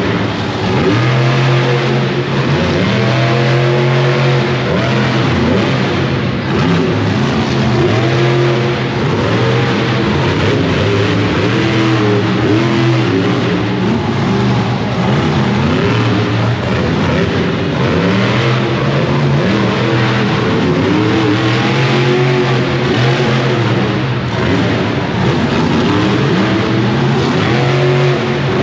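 Monster truck engine revving hard, its pitch rising and falling again and again as the throttle is worked, over a loud steady roar.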